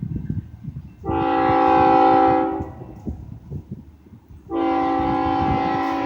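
Air horn of an approaching BNSF freight locomotive sounding a steady multi-note chord in long blasts. A blast ends at the start, a second runs for about a second and a half, and a third begins near the end, the pattern of a train blowing for a grade crossing. A low rough rumbling noise runs underneath.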